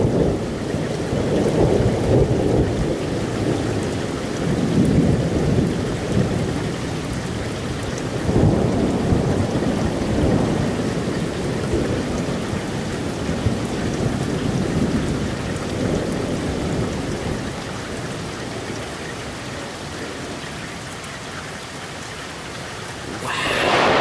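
Heavy rain falling steadily while thunder rolls in repeated long, low rumbles that swell and die away. The rumbling fades toward the end, then a loud thunderclap breaks in just before the end.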